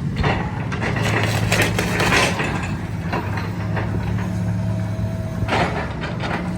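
An engine running steadily with a low hum, broken several times by short bursts of scraping or crunching noise.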